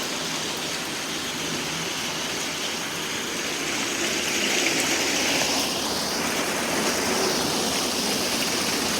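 Heavy downpour: a steady rush of rain, growing a little louder about four seconds in.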